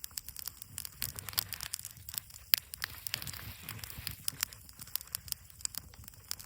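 Campfire wood crackling, with irregular sharp pops and snaps and one louder pop about two and a half seconds in.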